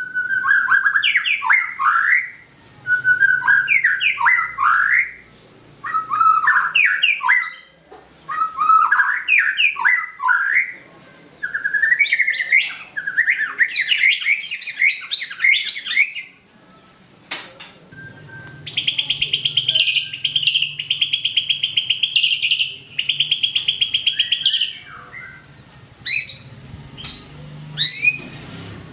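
White-rumped shama singing a run of fluty, sweeping whistled phrases, one burst every couple of seconds. About two-thirds of the way in it switches to three long, harsh buzzing trills, then ends with short rising whistles.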